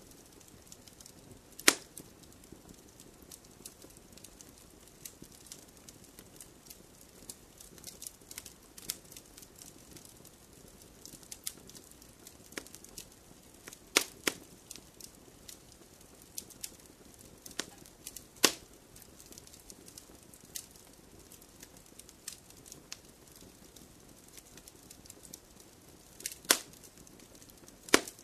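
Wood fire crackling steadily with a faint hiss and many small snaps, broken by a few loud sharp pops about 2, 14, 18, 26 and 28 seconds in.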